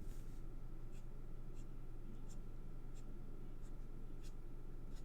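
Marker pen drawn in short strokes across card, a faint scratch about every two-thirds of a second, over a steady low hum.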